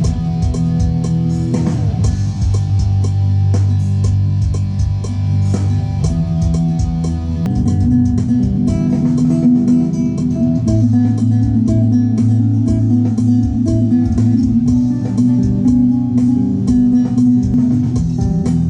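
Guitar music with bass: plucked and strummed guitar notes in a steady rhythm, the chord changing about 8 seconds in.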